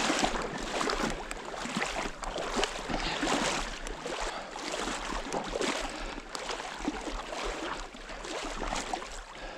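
Irregular splashing and rustling of someone moving through shallow marsh water and vegetation.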